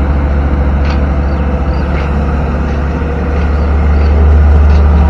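Excavator's diesel engine running steadily at close range, with a deep, even hum that swells about four seconds in as it works harder.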